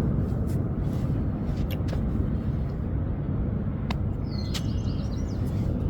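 Outdoor field ambience on a walking trail: a steady low rumble with a few faint clicks, and a short bird chirp about four and a half seconds in.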